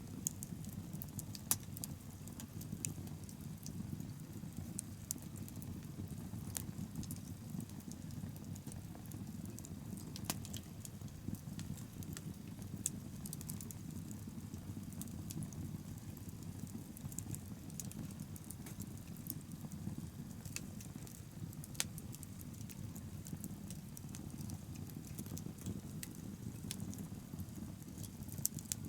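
Wood bonfire burning: a steady low rush of flames with scattered sharp crackles and pops throughout. A few louder snaps come about a second and a half in, around ten seconds and around twenty-two seconds.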